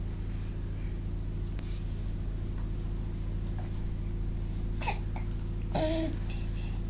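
A baby making two brief vocal noises, about five and six seconds in, over a steady low hum.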